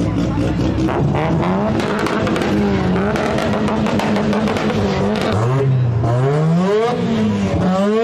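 A car engine with a loud exhaust being revved hard over and over, its pitch sweeping up and falling back, with quicker repeated blips in the second half.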